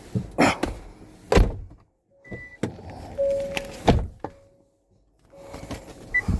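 Several heavy thunks, typical of oak firewood bundles being dropped or set down, spaced a second or more apart. A faint steady hum runs underneath, and a few short high beeps come near the end.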